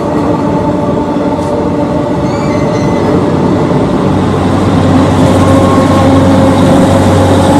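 DEMU (diesel-electric multiple unit) train passing, a steady run of engine hum and rail noise. A low engine hum comes in about halfway through, and the sound grows louder toward the end.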